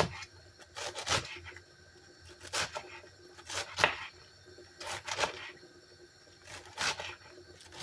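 Crisp rustling strokes of lettuce leaves being handled, about six or seven short strokes a second or so apart, some louder than others.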